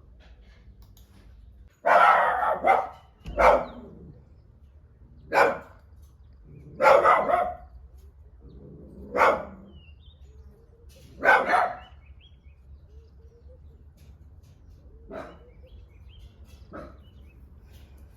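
A dog barking repeatedly: about six loud barks a second or two apart, then two fainter ones near the end.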